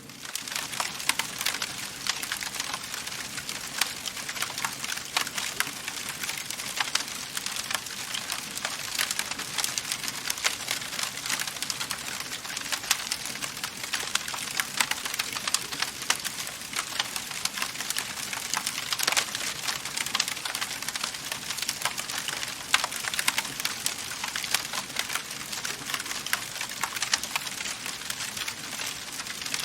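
Wood fire crackling in a fireplace: a dense, steady run of sharp pops and snaps over a soft hiss of burning.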